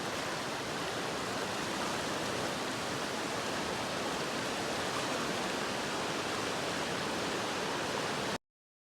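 Flooded Piscobamba River rushing, a steady, even roar of fast floodwater that cuts off abruptly near the end.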